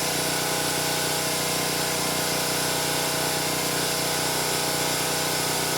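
A steady machine hum with a hiss over it, holding level throughout with no change in pitch.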